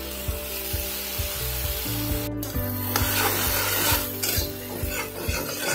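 Ginger, tomato and green chilli paste sizzling in hot oil in a wok while a flat metal spatula stirs and scrapes it against the pan, over soft background music.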